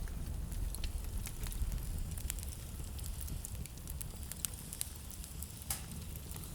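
Wood fire burning in a fireplace, with a steady low rumble of the flames and irregular sharp crackles and pops, a louder pop about two, four and a half and nearly six seconds in.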